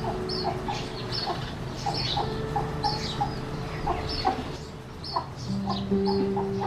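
Sparrow chirping in short repeated high notes, with a hen clucking steadily underneath. A steady low hum comes in near the end.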